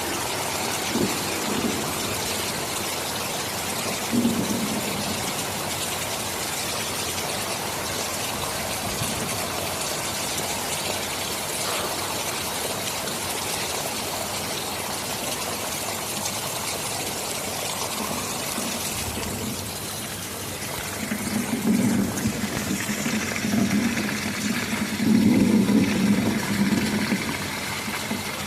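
Steady heavy rain. Low rumbling swells in uneven rolls for several seconds near the end, like distant thunder.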